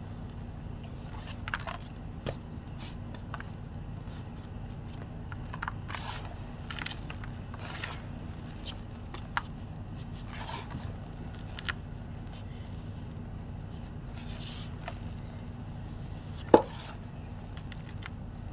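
White gym chalk being crunched: scattered short, dry crunches and crackles at irregular intervals, with one much louder sharp crack about three-quarters of the way through, over a steady low hum.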